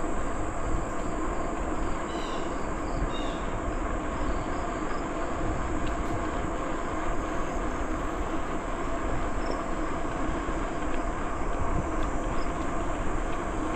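Steady rolling noise of a bicycle on a trail: tyres and drivetrain running at an even pace, with a few faint high chirps about two to three seconds in.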